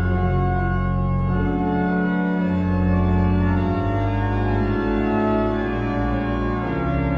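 Sanctuary pipe organ playing full, sustained chords over deep bass notes, the harmony changing every second or two.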